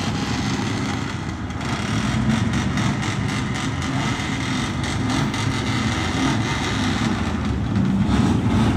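Car and truck engines running and moving through a parking lot as the vehicles are run off, a steady low drone.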